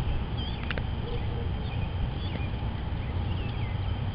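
Outdoor ambience: a steady low rumble with small birds chirping a few short notes now and then.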